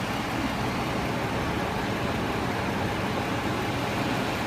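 Steady motor-vehicle noise: a constant low hum under an even rush of sound, with no distinct events.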